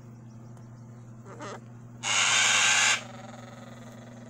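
A blue-and-gold macaw gives one loud, harsh screech lasting about a second, starting about two seconds in.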